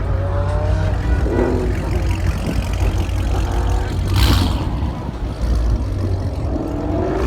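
Car engines running with a heavy low rumble, and a short hiss about four seconds in.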